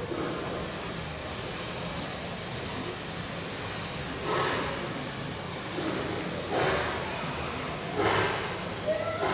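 Background ambience of a large hall: a steady hiss of room noise, with indistinct voices coming through briefly several times from about four seconds in.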